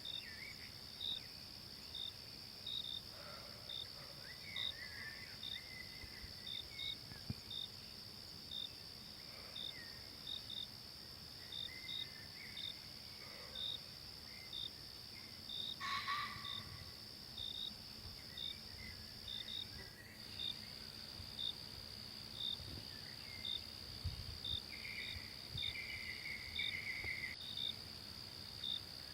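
Night insects: a steady high-pitched buzz with crickets chirping about once or twice a second. Faint bird calls come now and then, one a little louder midway.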